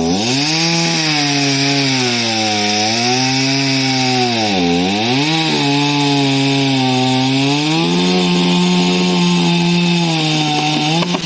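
Chainsaw running at high revs while cutting through a tree trunk. Its pitch drops sharply twice as the chain bogs down in the wood, then it runs on steadily and stops near the end.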